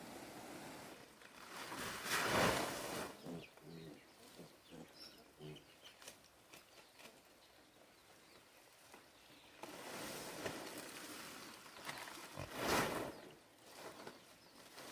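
Pigs grunting: two loud, rough grunts about ten seconds apart, with a few short, soft grunts between them.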